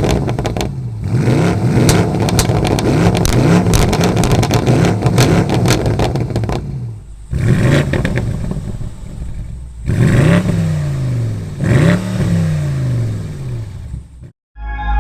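BMW 8 Series engine revved repeatedly through an AC Schnitzer performance exhaust, pitch climbing and falling in a run of quick blips, with sharp crackles throughout. The sound cuts off abruptly near the end.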